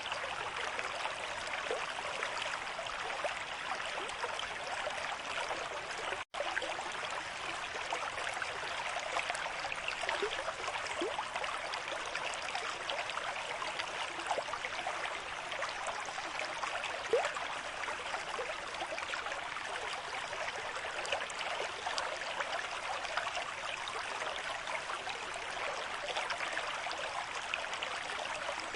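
River stream with moderate flow, running in a steady, even rush of water. About six seconds in, the sound drops out for a split second.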